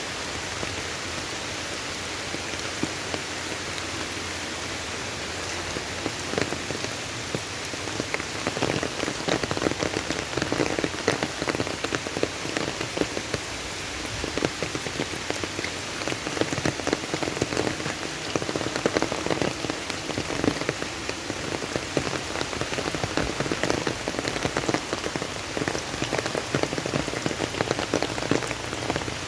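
Steady heavy rain falling, a dense patter of drops on surfaces that grows heavier about eight seconds in.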